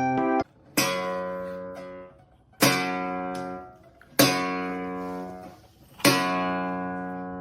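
Background music: four strummed acoustic guitar chords, each struck sharply and left to ring and fade before the next.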